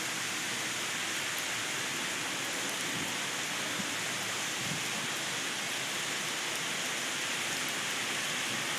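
Heavy rain falling steadily on a city street, a constant even hiss.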